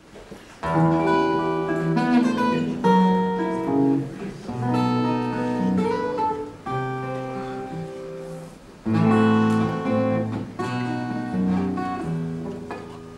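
Acoustic guitar playing an instrumental introduction: plucked and strummed chords, each ringing out and fading, a new group struck every second or two.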